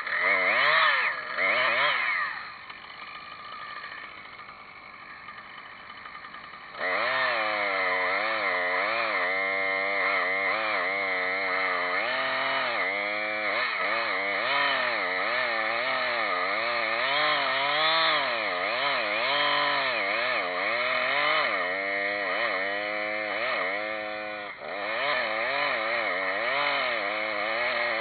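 Chainsaw revving a few times and dropping to idle, then running at full throttle from about seven seconds in, its pitch wavering as it cuts into sweet gum wood, with a brief dip near the end.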